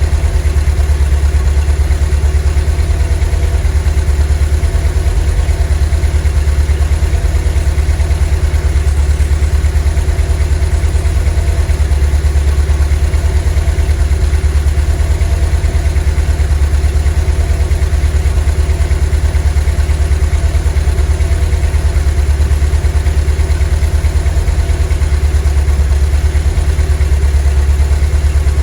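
VW T3 bus's 2.1-litre water-cooled flat-four (Wasserboxer) engine idling steadily, a low even pulse with no change in speed.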